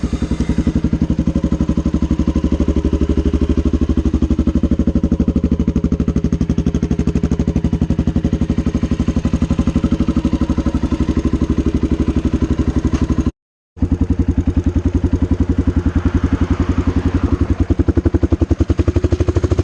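Honda XR650L's air-cooled single-cylinder four-stroke engine, freshly rebuilt with a new timing chain and head gasket, running steadily at an even, unchanging speed with a quick, regular thumping pulse. The sound breaks off completely for a moment about thirteen seconds in.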